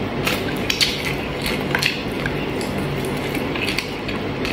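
A person chewing chicken adobo and rice eaten by hand, close to the microphone: a scattering of short mouth clicks and smacks over steady background noise.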